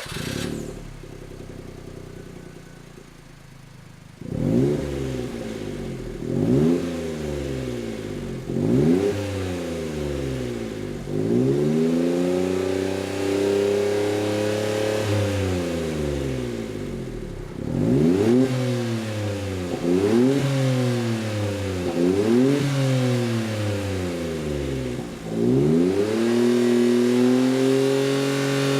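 Daihatsu Hijet Cargo's 660 cc three-cylinder turbo engine through a custom deep-bass exhaust with a single round silencer. It idles for a few seconds, then is revved repeatedly in quick blips and a few longer held revs, the pitch rising and falling each time.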